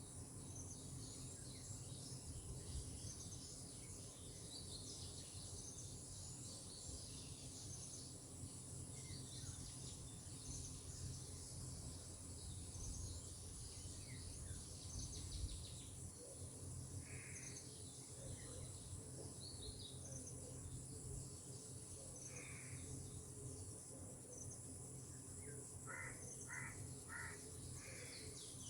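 Tropical outdoor ambience: a steady high-pitched insect drone under scattered bird chirps, with a low background hiss. Short single bird calls come twice mid-way, then a run of four quick calls near the end.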